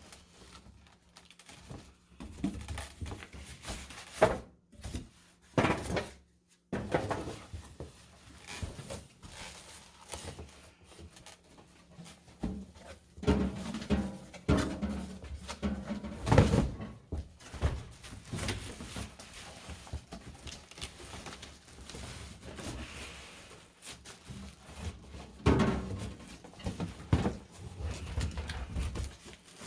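Cardboard packaging being handled while unboxing a countertop microwave: irregular knocks, thuds and rustling, busier and louder in the second half.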